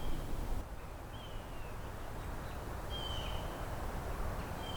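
Woodland ambience with a short, high, slightly falling call from a small animal repeated about every two seconds.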